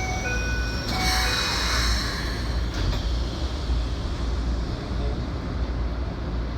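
Keikyu electric train running along the line, heard from inside the car: a steady low rumble of wheels on rail. In the first two seconds, short high electrical tones step up in pitch, and a hiss rises briefly around one to three seconds in.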